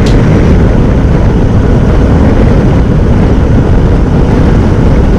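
Steady, loud wind rush and road noise from a Honda NC750X motorcycle riding at speed, with no distinct pitched engine note.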